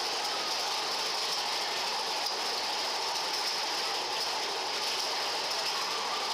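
Big Thunder Mountain Railroad mine-train roller coaster running along its track, a steady mechanical rattle of the train on the rails.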